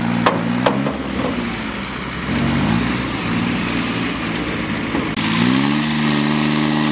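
Heavy vehicle engine running at low revs, with two sharp clicks in the first second. About five seconds in, it revs up and holds a higher, steady speed.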